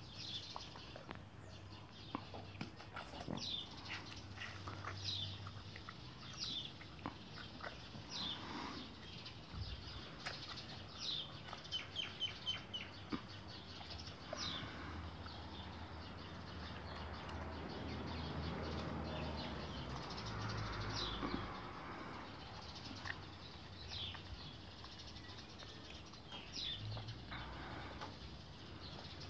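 Birds chirping outdoors: short, high calls every second or two, with a quick run of repeated notes about midway. A soft, even noise swells and fades in the middle.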